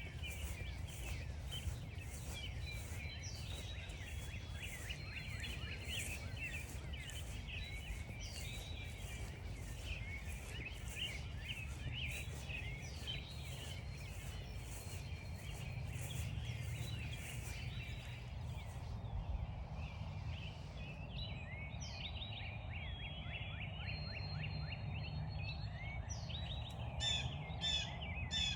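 Footsteps crunching on frost-stiffened grass at a steady walking pace, stopping about two-thirds of the way through, with a few more crunching steps near the end. Under them a busy chorus of small songbirds chirps and sings throughout.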